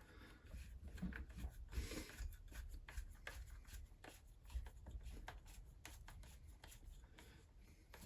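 Hand tool turning out bolts on a Husqvarna 346XP chainsaw: faint, irregular small clicks and scraping of metal on metal.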